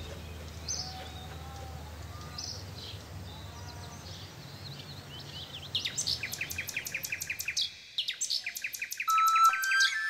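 Birdsong over a steady outdoor hiss: scattered faint chirps at first, then about six seconds in, two quick runs of rapid repeated chirps. Near the end a flute comes in with held notes.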